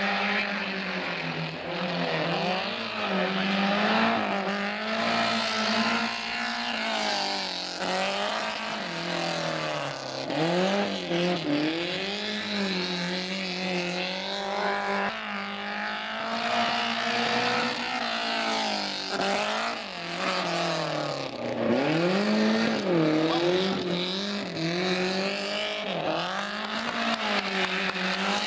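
Renault 5 slalom car's four-cylinder engine being driven hard through the course, revving up and dropping back over and over as the driver works the throttle and gears between cones.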